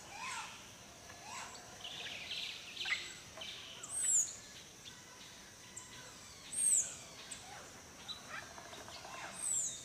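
Birdsong: assorted faint chirps and calls over a light background hiss, with a short, high, arching whistled call heard three times.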